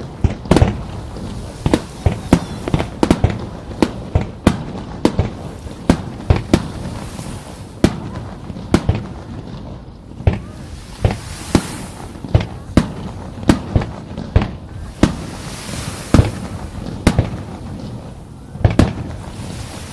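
Aerial fireworks shells bursting in quick succession: sharp bangs at irregular intervals, about one to two a second, with a couple of stretches of crackling from glittering shells.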